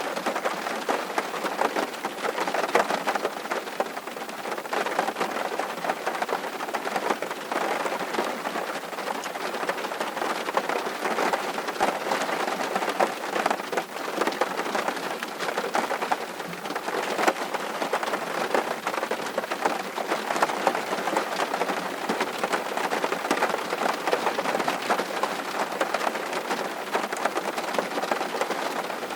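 Steady rain, with a dense patter of individual drops ticking over an even hiss. It stays level throughout, with no thunder.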